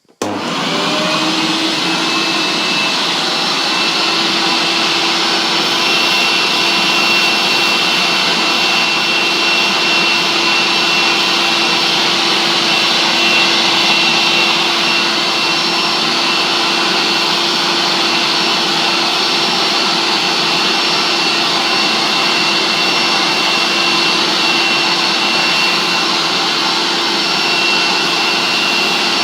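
Hoover S 4042 vacuum cleaner switched on, its motor spinning up within about a second and then running steadily, with a high steady whine over the rush of air.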